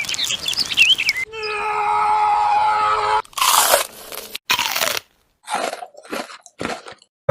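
Crisp food being bitten and chewed, with a run of separate loud crunches in the second half.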